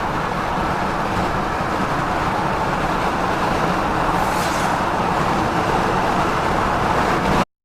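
Steady road and engine noise of a moving car, with a brief rushing hiss about four seconds in; it cuts off abruptly just before the end.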